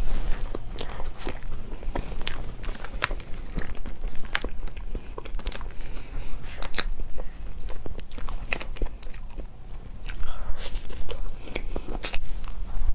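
Close-up chewing and biting of a soft mango crepe roll cake filled with cream, with many short sharp mouth clicks scattered throughout.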